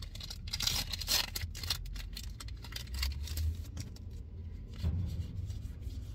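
Crinkling and tearing of trading-card packaging, with quick clicks and rustles of cards being handled. It is busiest in the first two seconds and then thins out.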